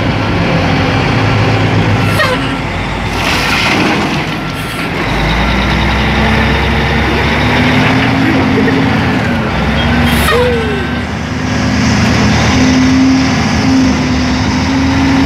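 Caterpillar 980F wheel loader's diesel engine running under load, heard from inside the cab, its pitch rising and falling as the machine works. Short hisses break in several times.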